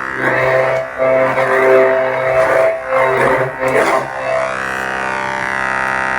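Custom lightsaber's soundboard playing a Lord Blako sound font: a steady electric hum with surging swing sounds as the blade is waved, the swings stopping for the last second or two while the hum runs on.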